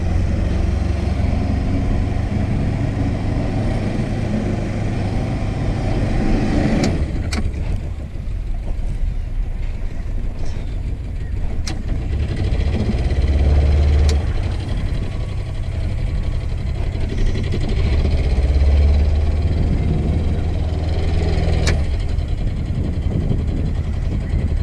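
Beta 13 hp inboard diesel engine of a small sailing boat running under way, a steady low rumble that swells louder twice. A few sharp knocks come through it.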